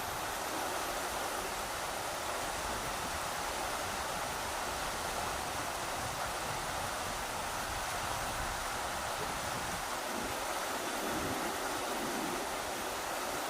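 Rushing river water: a steady, even rush, with an uneven low rumble of wind buffeting the microphone beneath it.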